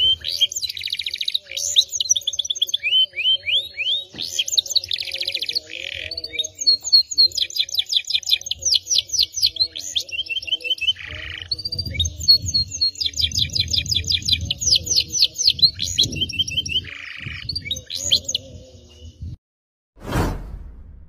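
Domestic canary song: fast trills, runs of repeated sweeping chirps and buzzy rolls. The song stops about 19 seconds in, and a single short burst of sound follows near the end.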